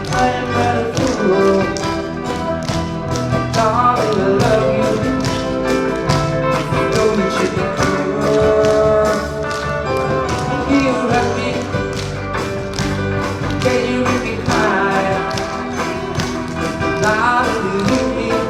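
Live band playing an oldies pop song, with a steady, quick drum beat under a melody line.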